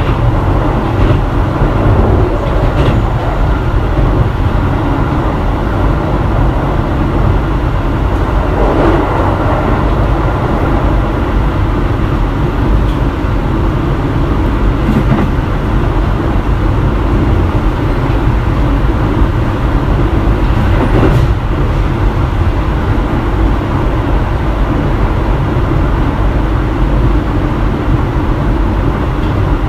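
Keio 7000 series electric train running at speed, heard from inside the car: a steady rumble of wheels and motors on the track, with a few sharp clicks from the wheels over rail joints.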